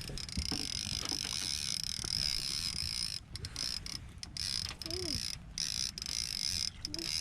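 Fishing reel being cranked to bring in a hooked catfish, its gears and pawl making a steady clicking whirr.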